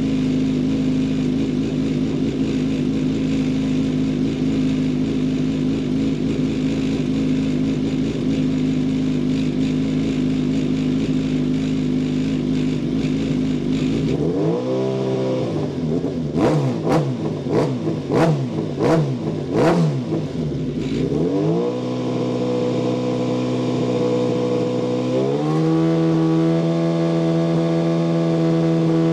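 Radical SR3 XXR race car engine idling steadily, then blipped through a quick run of revs that rise and fall, with sharp crackles, about halfway in. It settles to a steady fast idle and steps up to a higher held rpm near the end.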